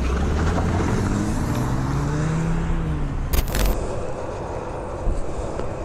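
Road traffic noise with a motor vehicle's engine, its note rising and then falling over the first three seconds, over a steady low rumble; a short click comes about three and a half seconds in.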